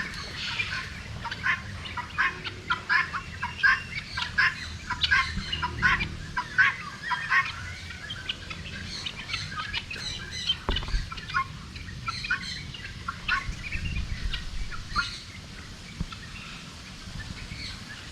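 Many caged birds calling: a dense run of short, sharp chirps and squawks for the first seven seconds or so, thinning out to scattered calls after that.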